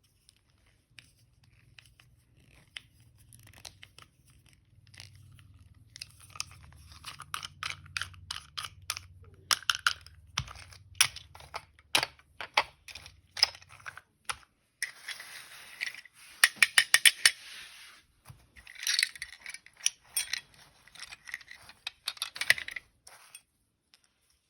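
Small hard objects being handled: a string of sharp clicks and taps with short scraping, rustling stretches, loudest in the second half. A faint low steady hum runs through the first half and then stops.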